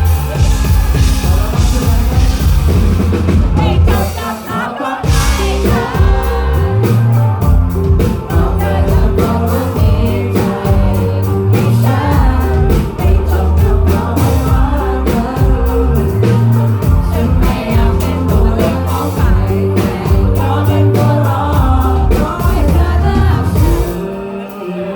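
Live pop-rock band playing a song with lead vocals over drum kit, bass and guitars, loud and close. The beat breaks off briefly about four seconds in, then the full band comes back.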